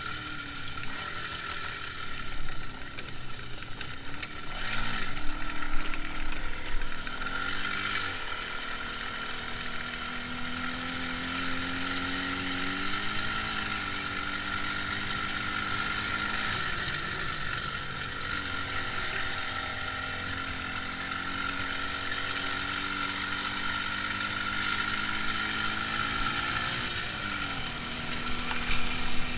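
IZh Jupiter 5 motorcycle's two-stroke twin-cylinder engine running on the move, with a rattly mechanical note; its pitch rises and falls several times as the engine speed changes.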